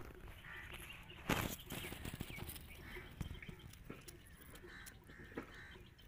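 Faint field ambience with distant farm birds calling now and then, and a single knock a little over a second in.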